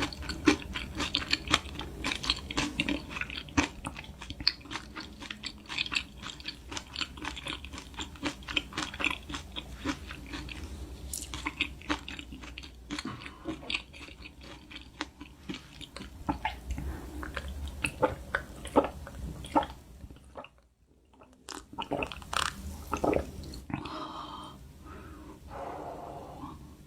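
Close-up chewing and crunching of food, dense crisp bites and chews, typical of a fried breaded shrimp cutlet being eaten. A short break about twenty seconds in.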